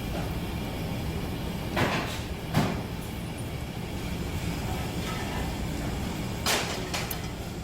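A steady low hum with three short knocks or clatters, at about two seconds, two and a half seconds and six and a half seconds in.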